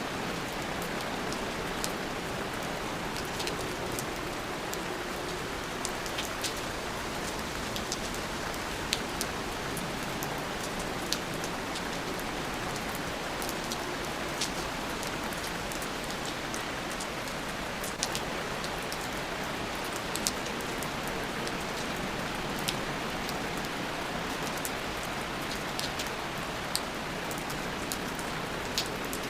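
Steady rain, an even hiss with irregular sharp ticks of single drops landing close by.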